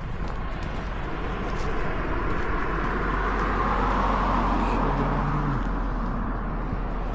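A car passing by on a road: its tyre and engine noise swells to a peak about four seconds in, then fades away.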